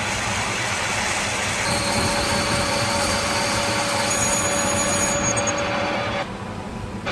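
Workshop power tool running steadily against a workpiece while handle parts are shaped. A faint steady whine joins about two seconds in, and the sound drops off briefly near the end.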